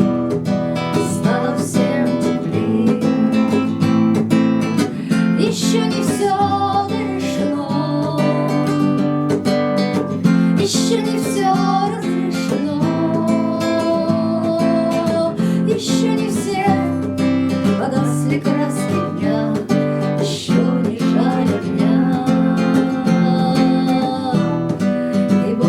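Music: an acoustic guitar strummed steadily.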